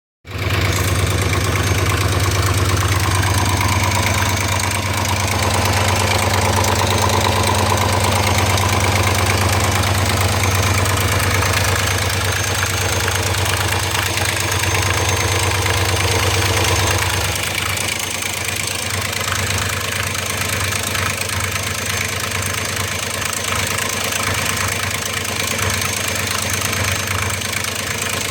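BMW 540i engine idling warm with a knocking noise, which the owner says only appears once the engine has warmed up. It turns a little quieter about two-thirds of the way through.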